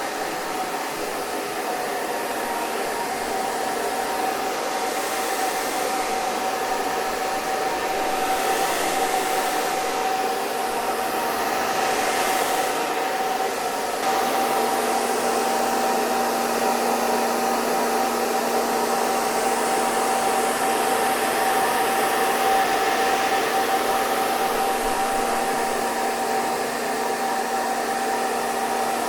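Hair dryer running steadily: a continuous rush of air under a constant motor whine, with small swells in the hiss.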